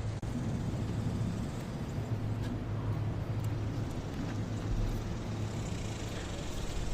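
A steady low engine drone, with a few faint clicks over it.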